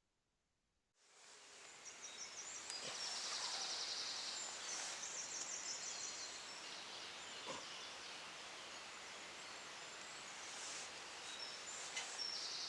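Outdoor ambience fading in about a second in: a steady rushing hiss with repeated high, buzzy chirps from insects or birds, and a couple of faint clicks.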